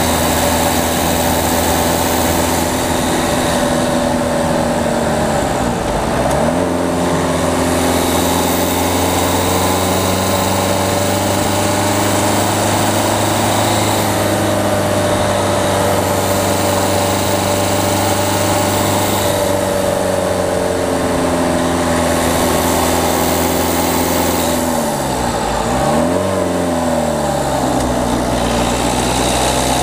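Peugeot 208 diesel engine pulling the car along a mountain road, heard from the front of the car with road and wind noise. The engine note drops away and climbs again twice, about six seconds in and near the end.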